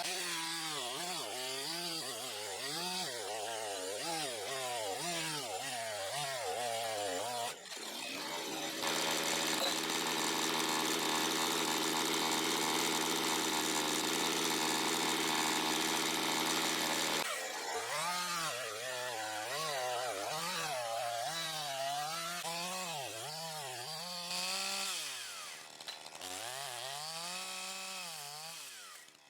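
Makita DCS5121 50 cc two-stroke chainsaw engine running, its speed wavering up and down. From about eight seconds in it holds a steady high speed for some nine seconds, then wavers again and dies away near the end.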